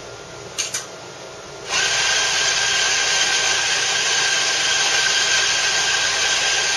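Compak K3 Touch espresso grinder running a preset double dose: a couple of short clicks, then the burr motor grinding steadily from about two seconds in, cutting off abruptly at the end.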